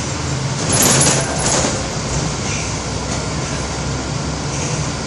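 Running bus: a steady low engine hum under constant road noise, with a brief louder hiss about a second in.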